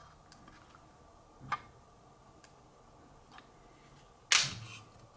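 Light handling clicks and knocks of an angle gauge and the arms of a Wicked Edge knife sharpener as the blade angle is checked: a few faint ticks, a sharper click about a second and a half in, and a loud knock near the end.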